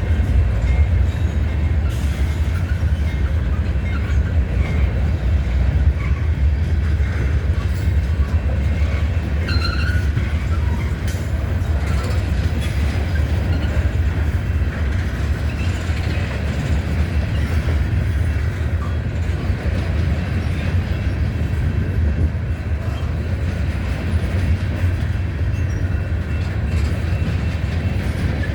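A CSX train rolling past, its wheels on the rails making a steady heavy low rumble, with a brief faint squeal about ten seconds in.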